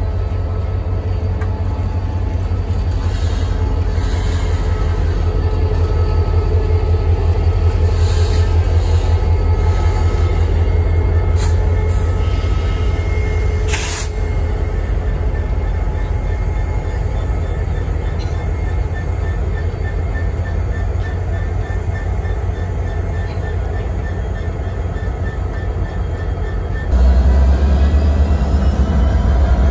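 CSX freight train passing: a steady low diesel locomotive rumble with the rail cars rolling by, and a brief sharp screech about halfway through. Near the end it turns suddenly louder and deeper, with diesel locomotives close by.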